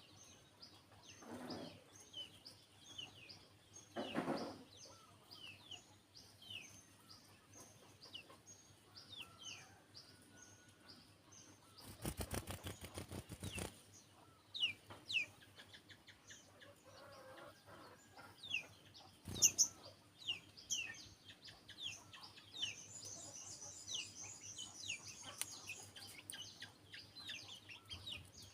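Sunbird calling with a long series of short, high chirps that each drop in pitch, one or two a second. About twelve seconds in there is a burst of rapid fluttering, and there are two dull thumps, about four seconds in and near twenty seconds.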